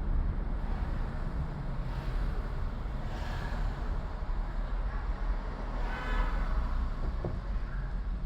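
Car driving on city streets: a steady low rumble of engine and road noise, with a brief pitched sound from the street about six seconds in.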